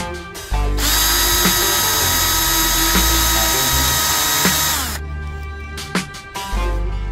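Small electric drill running at high speed with a steady high whine for about four seconds, then spinning down, over background music with a beat.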